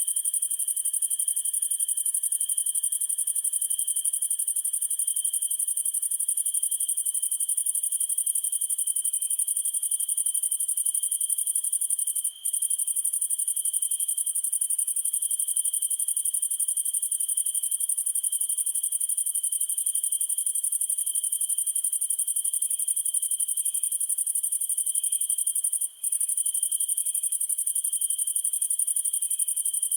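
A dense chorus of crickets trilling without a break: a steady high-pitched shrill over a lower, gently pulsing chirp. It cuts out for an instant twice.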